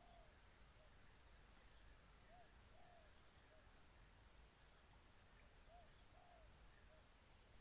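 Near silence with a faint bird call: groups of three short hooting notes, heard twice in full about three seconds apart, over a steady faint high whine.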